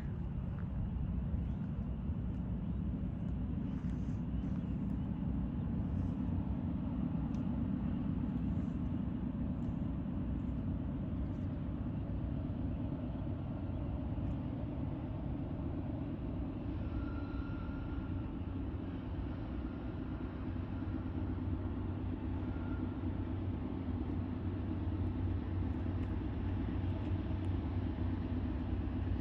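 Norfolk Southern intermodal freight train rolling by: a steady low rumble of the cars and locomotives.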